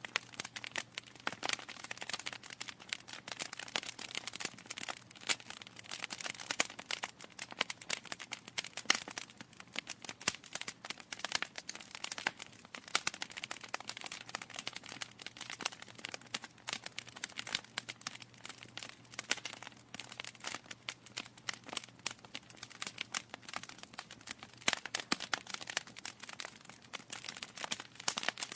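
Wood fire in a fireplace, logs burning with dense, irregular crackling and popping over a soft hiss.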